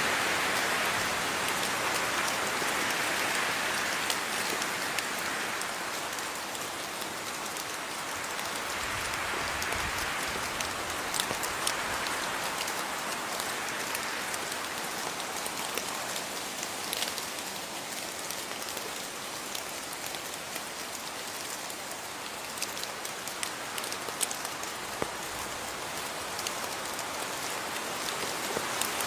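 Steady rain falling, a dense even hiss that swells and eases slowly, with individual drops ticking sharply on a hard surface here and there.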